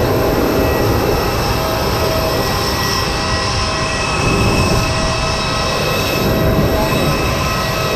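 Parked airliner's jet engines or auxiliary power unit running, a steady high whine over a loud rush.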